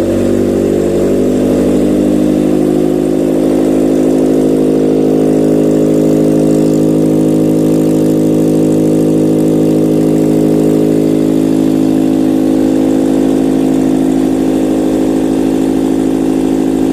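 Toyota 3S-FSE 2.0-litre inline-four petrol engine running on a test stand, idling steadily with an even, unchanging pitch.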